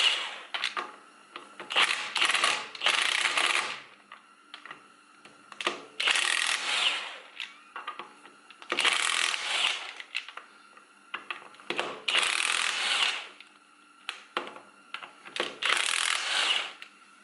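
Kobalt impact wrench hammering the lug nuts off a wheel in short bursts of about a second each, seven of them with pauses and small clicks between.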